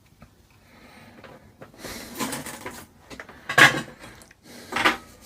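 Scraping and clattering of tools and wires being handled while working on an old amplifier's wiring, in a few irregular bursts; the loudest, sharpest one comes about three and a half seconds in.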